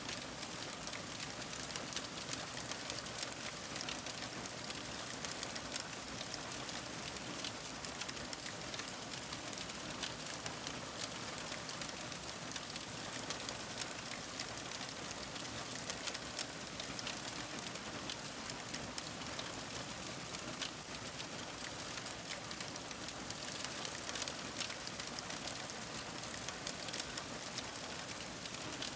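Wood fire crackling: a steady hiss with many small, irregular pops and snaps throughout.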